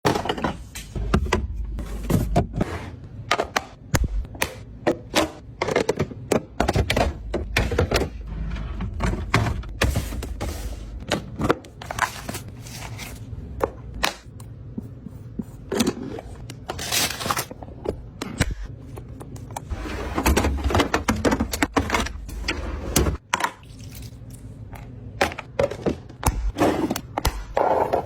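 Irregular knocks, taps and scrapes of food containers and bottles being handled and set down while a refrigerator is stocked.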